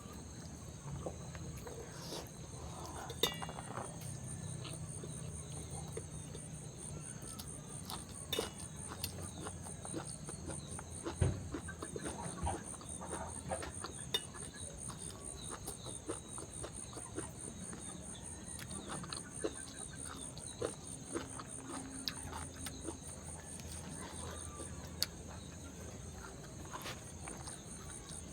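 Close chewing and lip-smacking of someone eating, with many short wet clicks, over a steady high chirring of insects.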